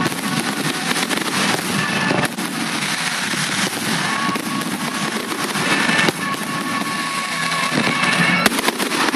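Fireworks display going off continuously: a dense crackle with sharp bangs, the sharpest near the end, over music.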